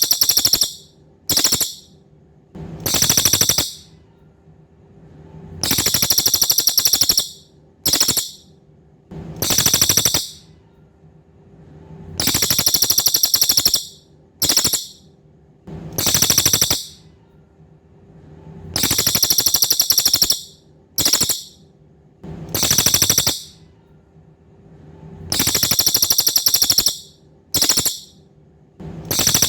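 Cililin songbird giving a very high, rapid buzzing trill over and over. Long phrases of a second or two alternate with short bursts, one every one to three seconds, over a faint steady hum.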